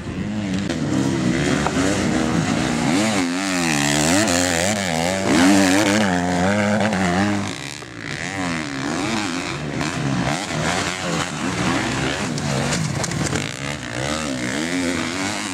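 Motocross bike engines revving as they ride, the pitch rising and falling again and again with the throttle. The sound is loudest in the first half and drops briefly about halfway through.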